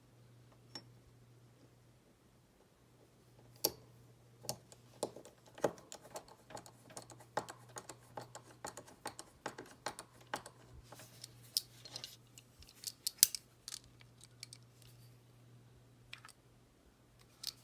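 Small parts of a scale model kit being handled and fitted together: a run of light, irregular clicks and taps starting about three and a half seconds in and dying away near the end, over a faint steady low hum.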